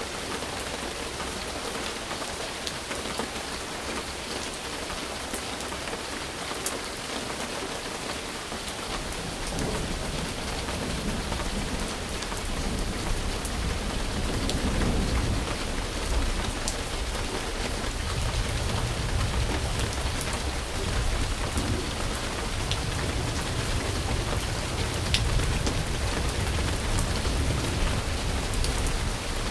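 Steady rain falling, with scattered individual drops ticking. A low rumble of thunder comes in about a third of the way through and swells and rolls on.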